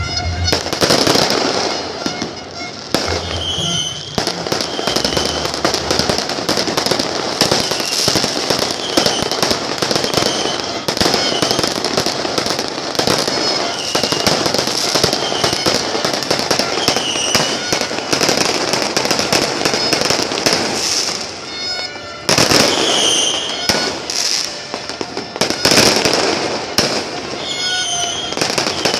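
Fireworks bursting and crackling without let-up, many cracks and bangs overlapping, with short high tones recurring every second or two.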